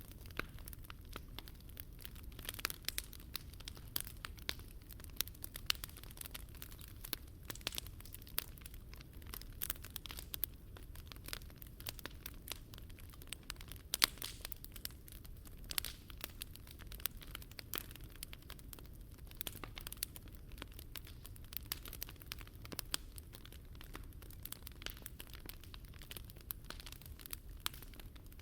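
Wood fire crackling in a fire pit: frequent irregular sharp pops and snaps over a low steady rumble, with a few louder pops.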